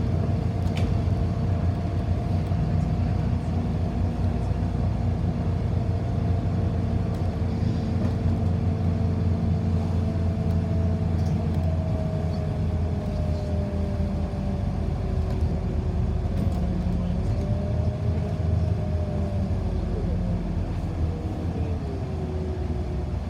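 Inside a city bus: a steady low rumble of the bus in motion, with a whine of two tones that slowly falls in pitch and drops further near the end as the bus slows toward its final stop.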